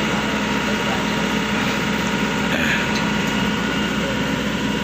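Heavy diesel engine running steadily, with an even, unchanging tone.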